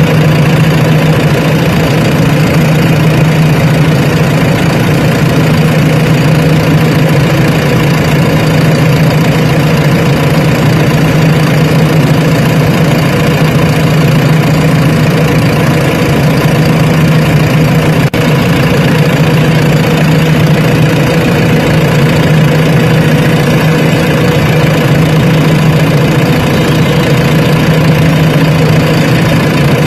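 Heavy diesel engine running steadily at an even speed, a loud constant hum with no revving or pauses.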